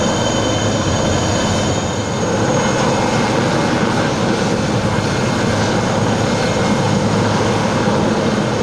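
IAR-330 Puma twin-turboshaft military helicopters flying past, a steady loud mix of engine and rotor noise. A high turbine whine is strongest for the first couple of seconds and then fades.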